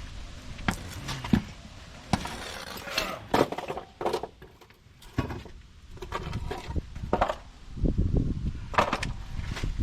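Hand tools and metal suspension parts clinking and knocking in irregular clusters of sharp hits, with wind buffeting the microphone.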